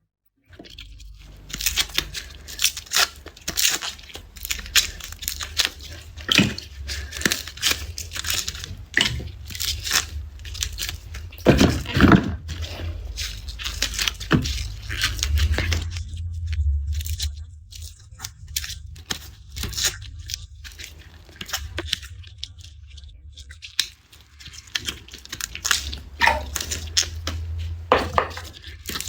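Garlic cloves being peeled by hand: the dry papery skins crackle and tear in quick, irregular snaps, with one sharper snap about twelve seconds in, over a steady low rumble.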